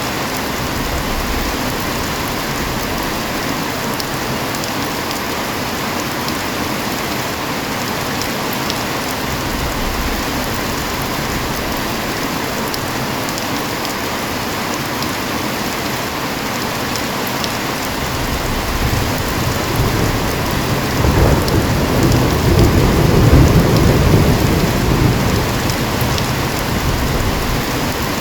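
Heavy rain falling steadily. About two-thirds of the way through, a low roll of thunder builds, swells, then fades away near the end.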